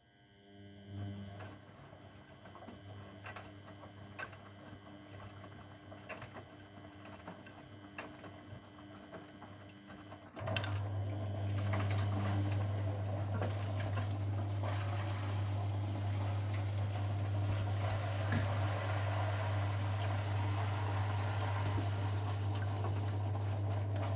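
Grundig washing machine in its Refresh programme. A quiet hum with a few clicks runs for about ten seconds, then the machine starts drawing in water: a loud steady valve hum and rushing water begin suddenly and continue.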